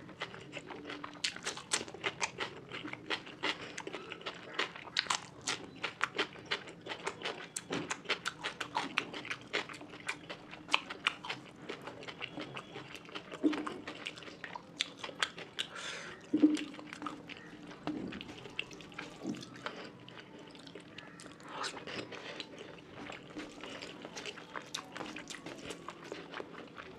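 Close-miked eating sounds: a person chewing a mouthful of fish curry and rice, with rapid irregular wet smacks and clicks of the mouth.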